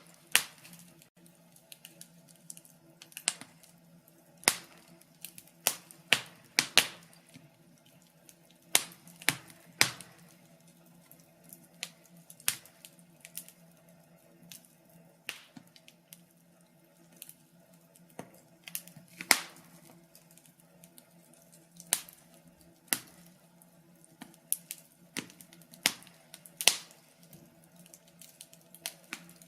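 Fire crackling: irregular sharp pops and snaps, a loud one every second or so with smaller crackles between, over a faint steady low hum.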